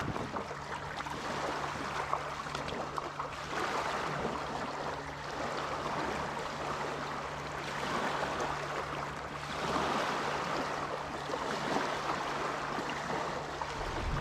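Water splashing and swishing around an Itiwit 100 inflatable kayak as it is paddled, swelling every few seconds with the strokes, over a faint steady low hum.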